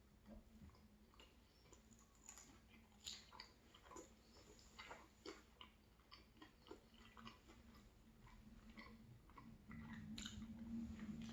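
Faint close-up chewing of food, with irregular soft wet mouth clicks and smacks. A low hum comes in near the end.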